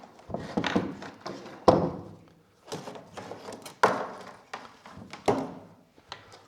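Knocks and clicks of the soldering station's hard parts being handled and pushed together as one part is clipped on, a series of irregular taps with a few sharper knocks about two and four seconds in.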